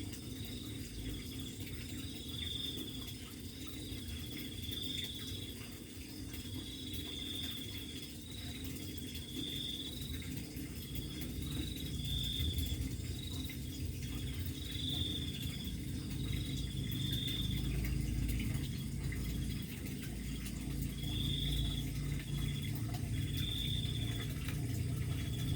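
Crickets chirping in repeated high trills, about one a second with a short pause past the middle, over the steady trickle of running water.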